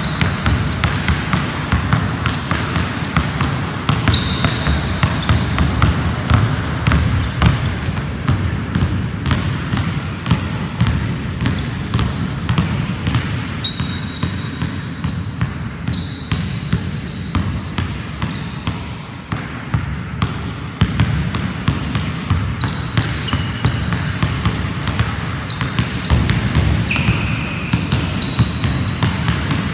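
Basketball dribbling on an indoor court: rapid, irregular bounces of the ball on the floor, with short high squeaks of sneakers on the floor scattered throughout.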